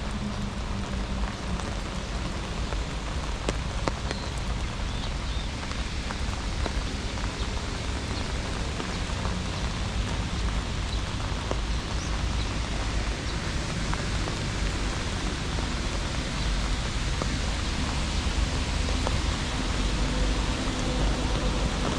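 Steady rain falling, with scattered raindrop taps over an even hiss and a low rumble underneath.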